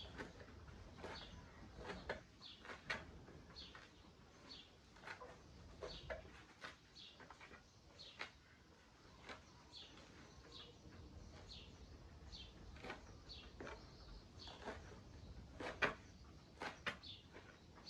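Chickens making short, high peeps and chirps over and over, with scattered sharp knocks and clicks.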